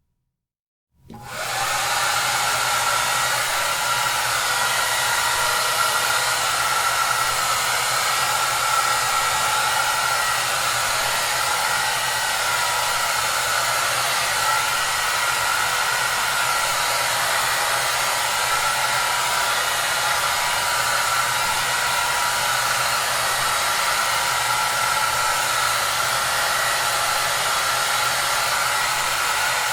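Hair dryer running steadily: an even rush of blown air with a faint whine over it. It starts out of a brief silence about a second in and is at full strength within a second.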